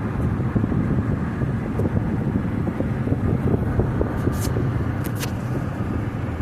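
A car driving, with steady road and engine noise and a few brief clicks about two-thirds of the way through.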